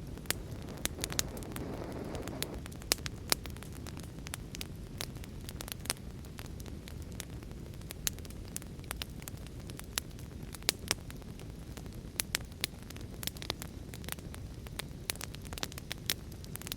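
Wood fire burning in a fireplace: a steady low rushing of the flames with irregular sharp crackles and pops of burning wood, a few louder than the rest. A brief swell in the flame's rushing about a second in.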